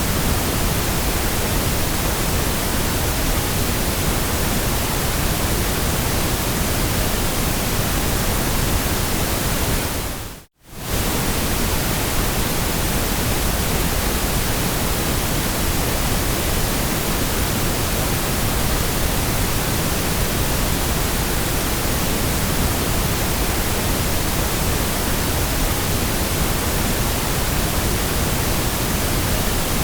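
Steady, even white-noise hiss spread across all pitches, with no rhythm or tones. About ten seconds in it briefly fades to near silence and straight back up.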